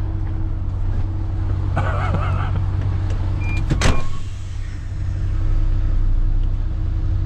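Truck diesel engine idling steadily, with a brief warbling whine about two seconds in and a sharp click a little before the middle.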